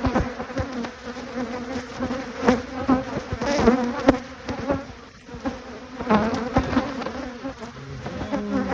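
Honeybees buzzing around an opened hive, a steady hum of many bees, with frequent short clicks and knocks on top.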